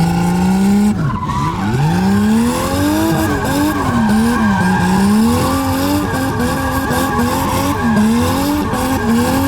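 Nissan R32 Skyline's turbocharged RB20E straight-six revving hard while the rear tyres squeal through a drift. About a second in the revs drop, then the engine note rises and falls again and again as the rear end hops: wheel hop, which the owner puts down to a blown-out left rear strut.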